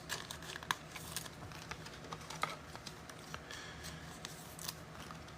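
Faint, irregular light clicks and taps, a dozen or so scattered over a few seconds, over a low steady hum.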